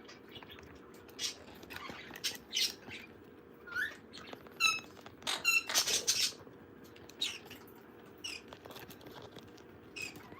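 Pet parrot making short chirps and squeaks, with a louder run of harsh squawks about five to six seconds in.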